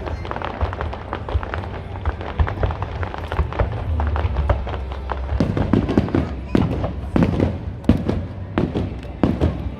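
Aerial fireworks going off in quick succession, a dense crackle of sharp pops over a low rumble. From about halfway through, heavier bursts come in.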